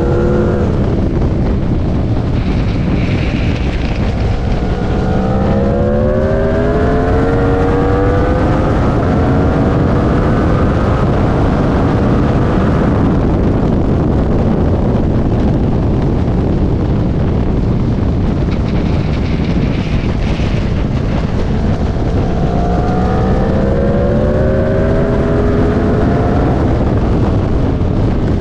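Aprilia Tuono V4 RR's V4 engine at racing speed, its note rising in two long climbs as the bike accelerates out of corners. Heavy wind noise on the onboard microphone runs under it.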